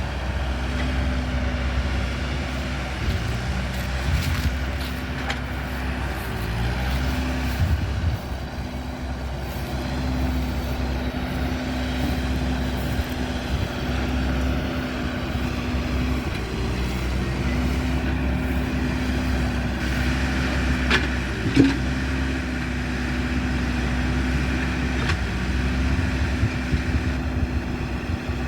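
A motor vehicle engine running steadily at idle, a continuous low rumble with a steady hum. A single sharp knock comes about three-quarters of the way through.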